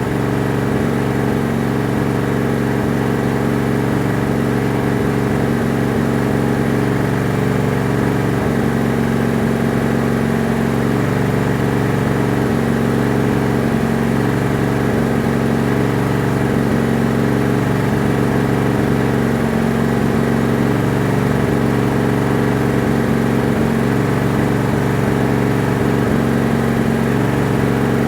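Tractor engine running steadily at one constant speed, an even drone that does not change.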